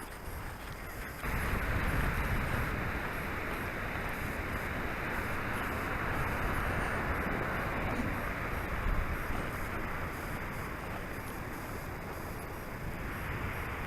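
Wind rushing over the microphone of camera glasses worn on a moving 2001 Kawasaki Drifter 1500 motorcycle, with the bike's running and road noise underneath. The rush gets louder about a second in and then holds steady.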